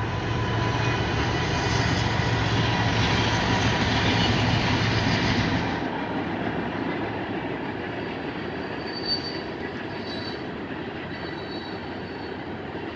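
Mixed freight train rolling past: a loud rumble with a steady low hum eases off about six seconds in. The cars then roll on more quietly, with short high-pitched wheel squeals near the end.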